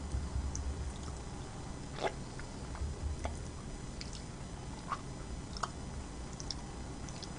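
Close-up chewing: a soft low pulsing of the jaw working with scattered short, wet mouth clicks and smacks, a few sharper ones about two, five and five and a half seconds in.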